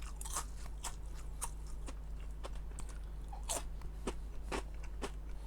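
Person chewing crispy fried fish skin, with many irregular sharp crunches and crackles. There is a steady low hum under it.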